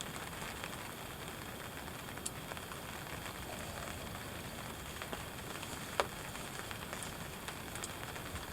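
Rain pattering steadily on a hunting ground blind, with scattered drop ticks and one sharper click about six seconds in.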